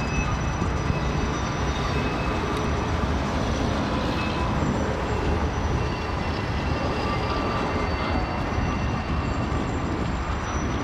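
Mixed freight train rolling past: a steady rumble of wheels on rail, with faint thin high squeals coming and going.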